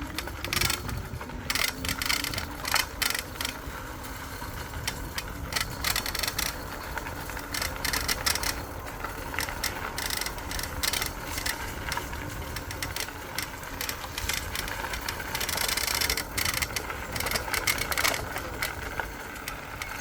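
E-bike rattling and clicking as it rides over a rough old trail, many irregular knocks and ticks over a steady low rumble of tyres on the ground.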